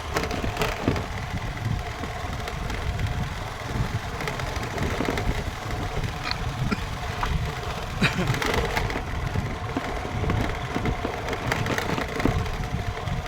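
A small vehicle engine running steadily with a low rumble and occasional knocks.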